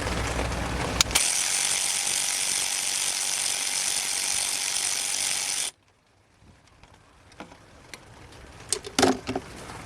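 Ratchet wrench clicking rapidly as a 12 mm alternator bolt is backed out, starting with a sharp click about a second in and stopping abruptly a little before six seconds. A few separate clicks and knocks of metal tools follow near the end.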